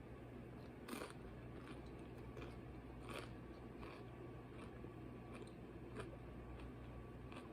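Quiet eating: a few soft crunchy bites, the clearest about one second and three seconds in, with chewing between them over a low steady hum.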